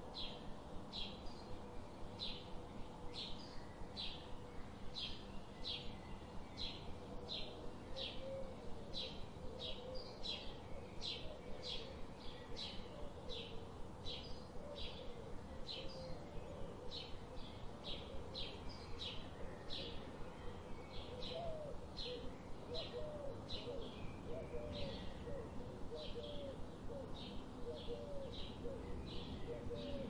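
Birdsong ambience: a bird repeating short high chirps at about two a second. Lower, wavering calls from another bird join in about a quarter of the way in.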